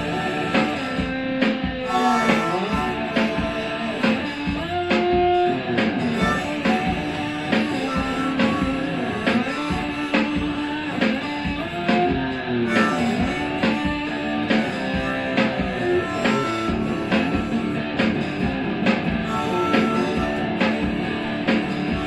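Instrumental break of a rock-blues song: a lead guitar solo of sustained notes that bend up and down, over a steady drum beat.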